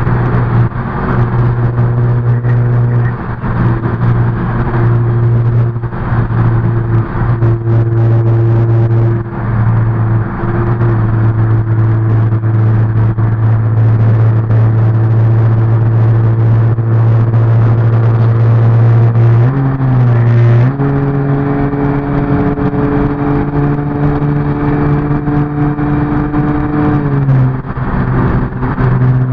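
Car engine and exhaust droning at a steady cruising speed, heard from inside the cabin while driving. The pitch dips and settles a little higher about 20 seconds in, then falls again near the end.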